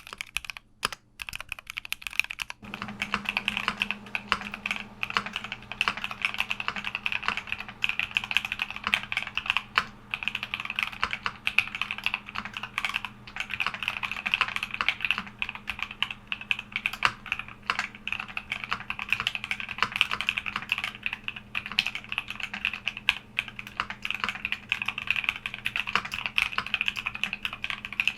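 Fast typing on a Keychron Q60 mechanical keyboard: a dense, continuous clatter of keystrokes. There is a brief halting stretch in the first two seconds or so before the steady typing resumes.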